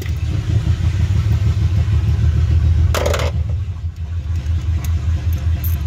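A neighbouring car's engine idling with a loud, pulsing low rumble, which sounds to the listener as if it needs a tune-up. A brief clatter about three seconds in.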